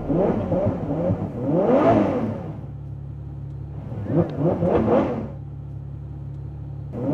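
Ferrari 812 Superfast's V12 engine revved in short throttle blips while standing still: several revs that rise and fall in pitch, the biggest about two seconds in and two quick ones in the middle, with a steady idle between them.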